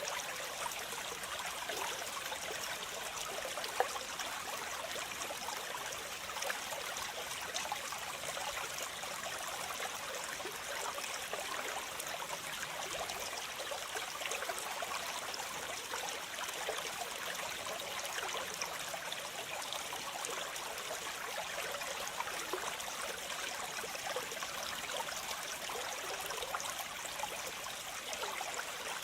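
Waterfall: water falling and splashing steadily, a bright rushing hiss with fine trickling splashes and little low rumble.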